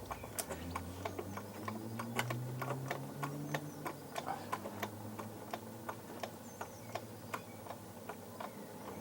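A jack being worked to raise the rear axle and take the tension off the coil spring, giving a steady run of short, light clicks, several a second.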